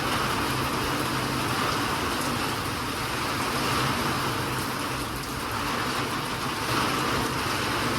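Steady rain falling, an even continuous hiss, with a low steady hum underneath.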